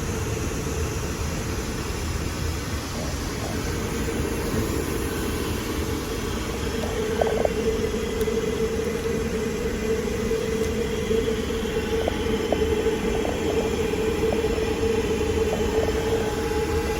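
Steady cabin noise of a Boeing 737 MAX 8 airliner in flight: a low rumble of engines and airflow with a steady hum and a few faint clicks.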